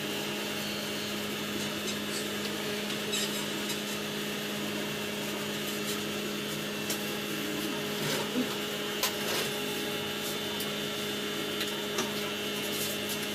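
Steady electric motor hum, with a few short sharp clicks and taps scattered through it.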